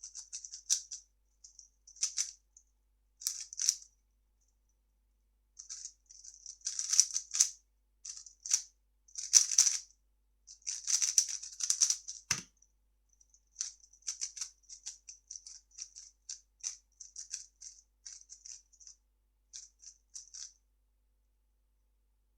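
3x3 speed cube being turned fast by hand: plastic layers clicking and rattling in quick bursts with short pauses, and one sharper knock about halfway through. The turning stops a couple of seconds before the end.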